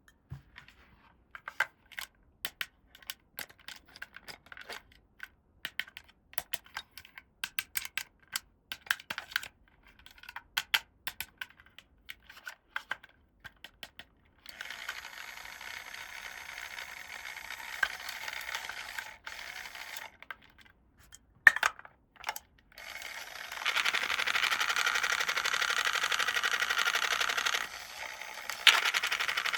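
Small plastic toy pieces being handled and set down: a run of light clicks and taps. Then comes steady rustling noise, about halfway through and again louder near the end, with a couple of sharp knocks between.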